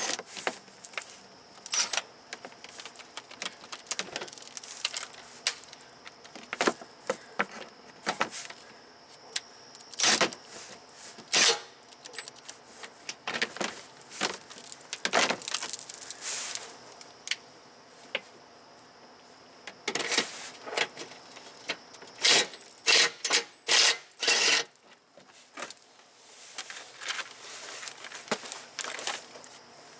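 Irregular metallic clicks and clanks of a hand ratchet and tools working the 12 mm bolts on a car's underbody panel.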